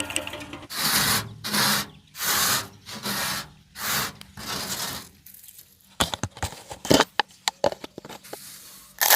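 Rhythmic hand scraping strokes, about six in a row, working at rust on a scooter's fuel tank, followed by a scatter of light clicks and knocks.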